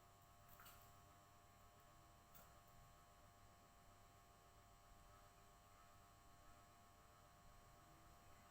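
Near silence with a faint steady electrical hum and two faint clicks in the first few seconds.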